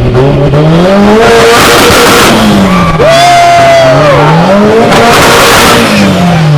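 Car engine with a side-exit exhaust revved hard twice from standstill, the pitch climbing and falling back each time, with a harsh rasp near the top of each rev as it is pushed to spit flames.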